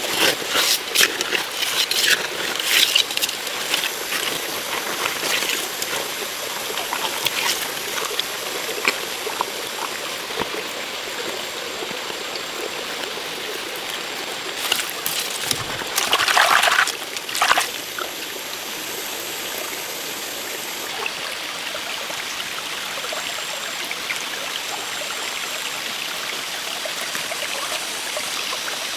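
Steady running water with a trickling, stream-like hiss. Scattered clicks and knocks sound over it in the first several seconds, and a louder rush of noise lasts for about two seconds past the middle.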